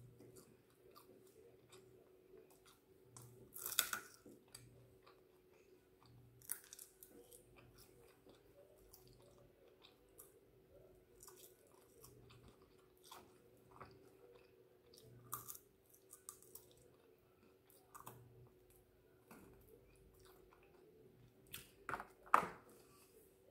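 Chewing and biting on chicken wings: quiet wet mouth sounds and clicks, with a louder bite about four seconds in and a louder burst near the end as fingers pull at the chicken on the plate. A faint steady hum underneath.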